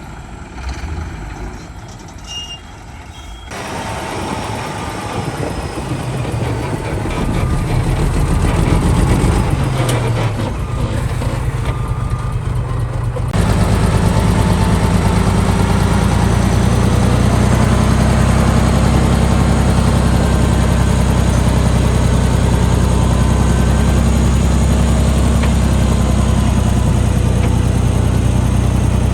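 Heavy diesel earthmoving machinery running, a bulldozer or dump truck at work. It is fairly quiet for the first few seconds, then grows louder and busier, and about halfway through it changes abruptly to a loud, steady low engine drone.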